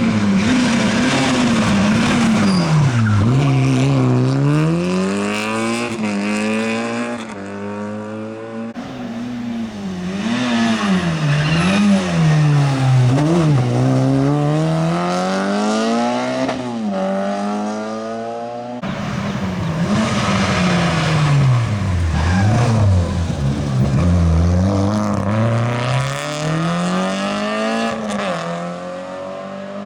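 Rally car engines revving hard, the pitch climbing and dropping again and again as the drivers shift gears and lift off for corners, over three short passes joined by cuts, about 9 and 19 seconds in.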